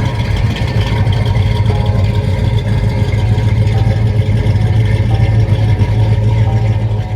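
A 1963 Ford Galaxie 500's V8 running at a steady idle through a custom 3-inch dual exhaust with an H-pipe and Flowmaster Super 44 mufflers, giving a deep, steady rumble.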